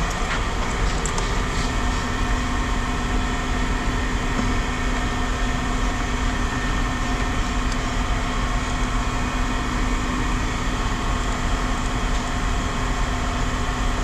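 Steady drone of heavy machinery running, with several steady humming tones and a few faint clicks in the first couple of seconds.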